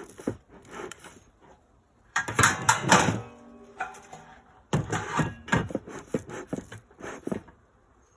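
Clattering, knocking and rustling of things being handled, in two bursts, with a short squeak in the first.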